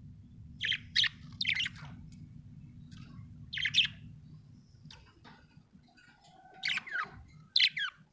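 Budgerigar chirping: short, bright chirps in little clusters, about five bursts with pauses between, over a low steady hum that fades away near the end.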